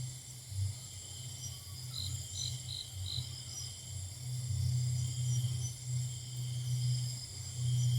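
Forest insect chorus, a steady high-pitched drone of crickets or cicadas, over a louder low rumble that swells and fades and grows stronger about halfway through. Four short, high notes sound about two to three seconds in.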